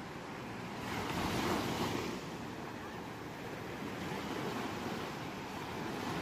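Ocean surf: a steady wash of waves, with one wave swelling and breaking about a second in, then falling back.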